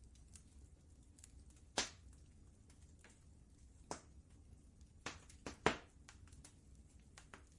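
Wood fire crackling in a fireplace: scattered sharp pops at irregular intervals, the loudest about two seconds in and a cluster of three near six seconds, over a faint low rumble.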